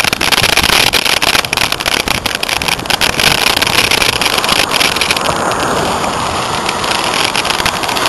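Wind rushing over the microphone of a camera held by a cyclist while riding, with many small clicks and knocks from handling and the bike; the rushing eases a little about five seconds in.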